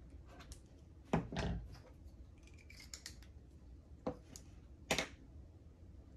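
Small tools and arrow parts being handled on a workbench: a few sharp clicks and knocks, the loudest about a second in with a brief rattle after it, and another sharp click near five seconds.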